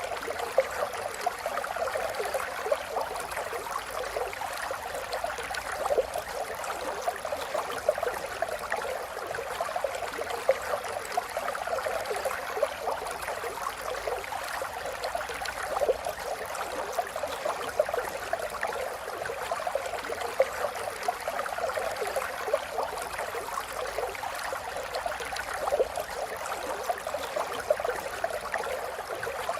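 River water flowing steadily: a busy, even babble of many small splashes, mostly in the middle and upper range with little low rumble.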